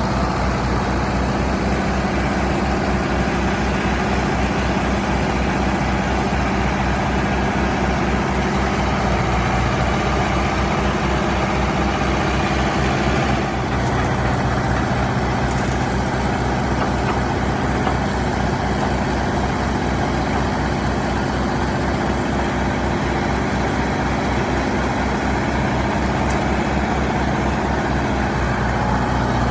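International Harvester 574 tractor engine running steadily, a low, even engine note with no change in speed.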